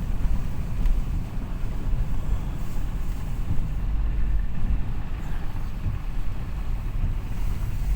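Steady low rumble of a car on the move, heard from inside the cabin, with wind buffeting the microphone.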